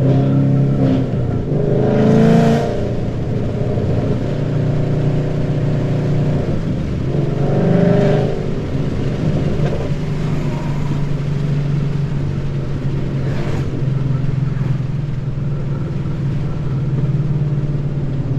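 2013 Ford Mustang GT's 5.0 V8 running through BBK long-tube headers, a high-flow X-pipe and Roush mufflers, heard from the cabin while driving: a steady exhaust drone with two short surges of throttle, about two seconds in and about eight seconds in.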